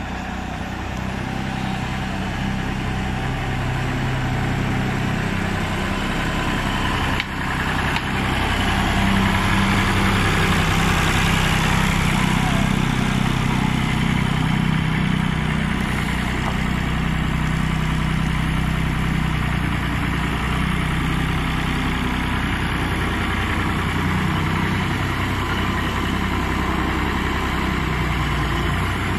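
Massey Ferguson 135 tractor engine idling steadily. About seven seconds in there is a short click, and the engine runs a little louder from then on.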